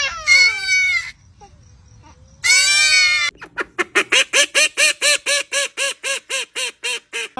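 An animal calling: a couple of falling calls at the start, a long call about two and a half seconds in, then a rapid, even run of short repeated calls, about five a second, to the end.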